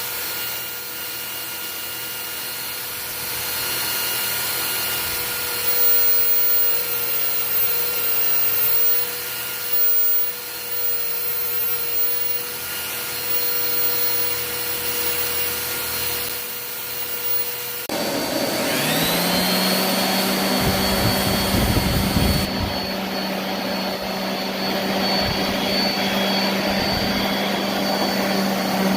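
Electric workshop power tools running. A steady motor noise with a faint whine runs at first. About 18 s in, a louder motor starts, spins up with a rising whine and settles into a steady high whine over a low hum.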